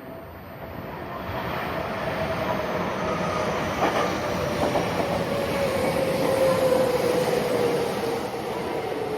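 Japanese local train running along the platform, growing louder over the first few seconds, with a steady whine that slowly falls in pitch and a sharp wheel click over the rails about four seconds in.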